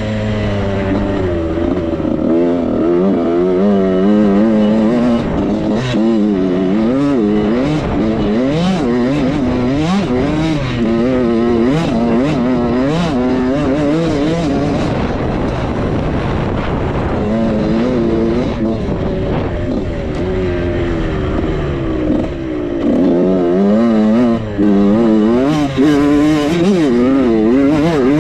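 Suzuki RM85's 85cc two-stroke single engine being ridden hard, the revs rising and falling constantly as the throttle is worked on and off, with a brief throttle chop about 24 seconds in.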